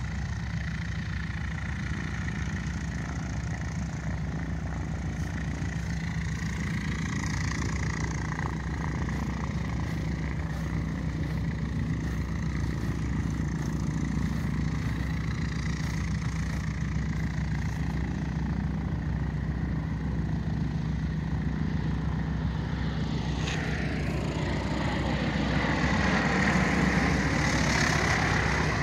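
Radial piston engine of a vintage propeller airplane running steadily at low power. It grows louder near the end, with its pitch sweeping as it moves.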